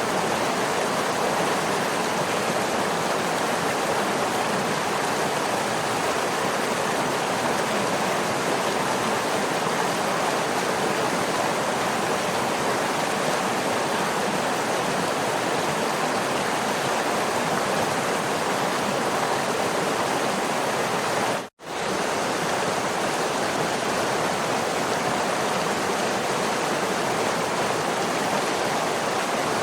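Waterfall rushing steadily, an even dense water noise with no change in level. About two-thirds of the way through it cuts out for a split second and comes straight back.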